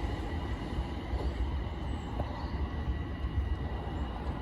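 London Overground Class 378 electric train running past the platform as it pulls away: a steady low rumble with a faint, even whine above it.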